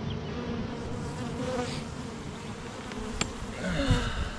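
Honey bees buzzing in a swarm around an opened hive, a steady hum with wavering pitch. A single sharp click comes about three seconds in, and handling noise rises near the end.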